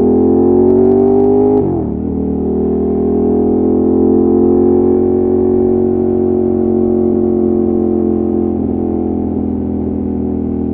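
Ducati Monster 1200's L-twin engine and exhaust under way, accelerating in gear. About two seconds in the pitch drops sharply with a quick upshift, then climbs gently again and settles to a steady cruise.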